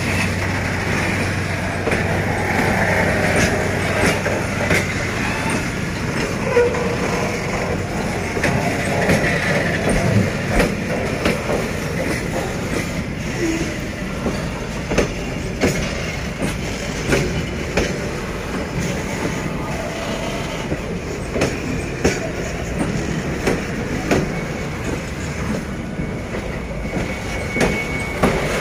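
Freight wagons of a Vietnam Railways train rolling past close by, their wheels knocking over the rail joints in a steady clickety-clack over continuous rolling noise. The knocks come further apart later on as the train slows to arrive at the station.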